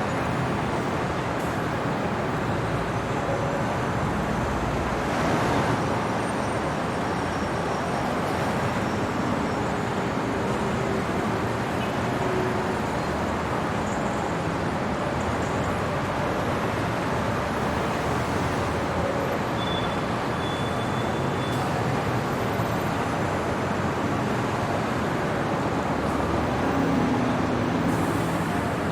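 City traffic at night: a steady wash of road noise from passing cars, with a slight swell about five seconds in and again near the end.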